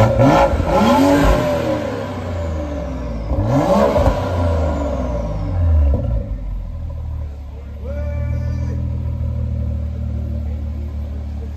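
BMW M340i's turbocharged inline-six revved twice through its newly fitted exhaust, each rev rising and dropping back, then settling to a steady idle with a short blip near the end.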